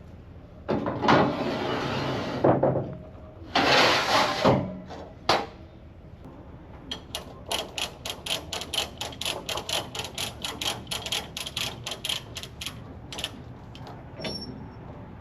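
Hand ratchet being cranked, a tie-down strap being tightened to secure a load on a trailer: a run of sharp, even ratchet clicks, about three a second, through the latter half. Before that come two longer rasping noises.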